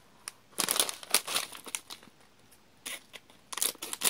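Plastic snack packaging crinkling in two bursts as it is handled and opened, about half a second in and again near the end.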